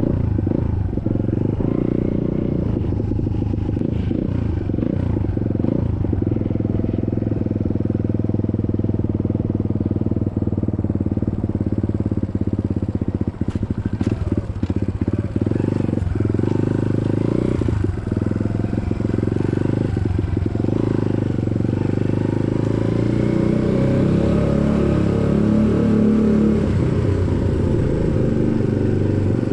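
SSR 150cc dirt bike's single-cylinder four-stroke engine running steadily while ridden, with a few brief dips in level in the middle.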